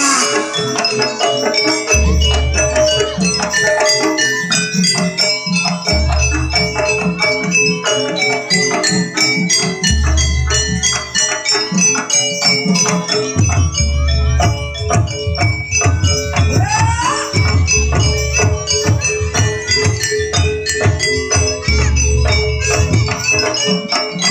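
Live jaranan gamelan music: metal-keyed mallet percussion in quick repeating strikes over a held tone, with deep low notes sounding about every four seconds. About thirteen seconds in, the low drumming becomes dense and continuous.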